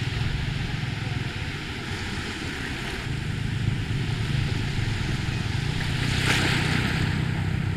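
Sea surf washing onto a beach under a heavy, steady rumble of wind on the microphone, with a brief swell of hiss about six seconds in.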